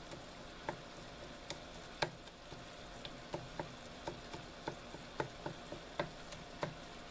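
Balsamic pan sauce sizzling as it reduces in a Teflon pan, with a dozen or so light clicks and taps scattered unevenly through it.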